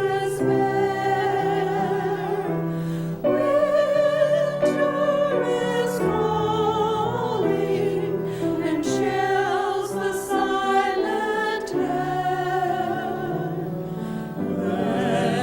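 Church choir ensemble singing an anthem in held, wavering notes, with a musical accompaniment.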